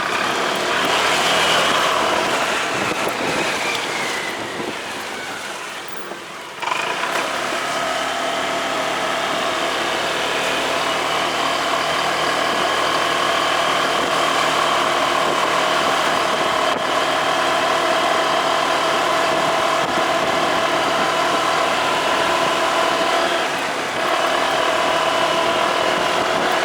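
Motorcycle engine and road noise while riding: the engine's pitch falls over the first few seconds as it slows. About six and a half seconds in the sound jumps suddenly louder and settles into a steady drone at constant speed.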